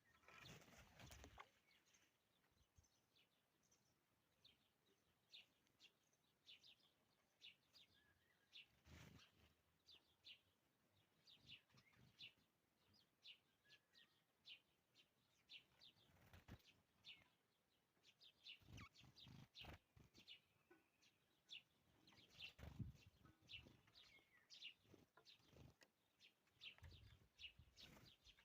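Faint bird calls: many short, high chirps repeating throughout, with a few louder, harsher calls scattered among them.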